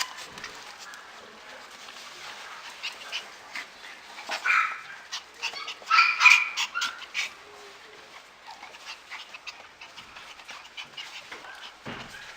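Puppy yipping and whining in short high-pitched calls, loudest about four and a half and six seconds in.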